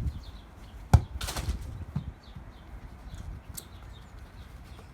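A hard football kicked once about a second in, a sharp thud followed by a brief rustle.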